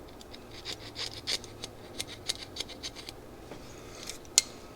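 Small metal tools and parts clicking and scratching at a workbench while a small go-kart carburetor's passages are cleaned. The ticks come in quick, irregular runs, with a sharper click near the end.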